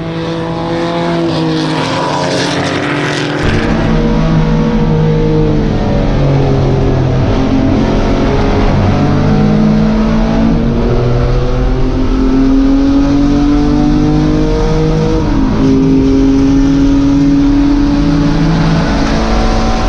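A Corvair race car's air-cooled flat-six engine running hard at racing speed, its pitch climbing, dropping at gear changes, and climbing again. A heavy low rumble joins about three and a half seconds in.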